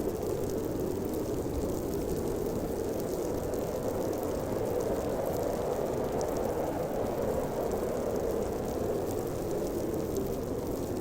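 Howling wind of a snowstorm, a steady low rushing that wavers gently without gusting or stopping.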